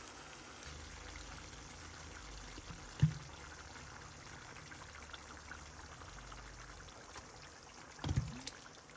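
Faint trickling water, with two dull thumps, one about three seconds in and a louder one near the end.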